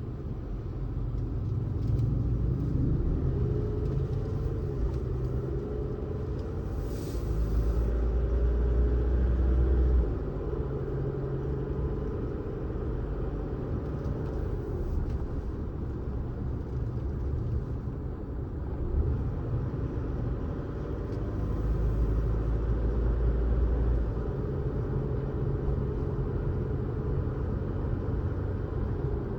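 A car driving along a road: steady tyre and engine rumble with a faint hum whose pitch rises and falls with speed. The low rumble grows heavier twice, about eight seconds in and again near twenty-two seconds.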